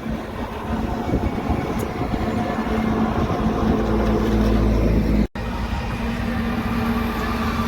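Heavy truck going by, its engine hum and a low rumble building over a few seconds. The sound drops out for an instant about five seconds in, then a steady engine hum carries on.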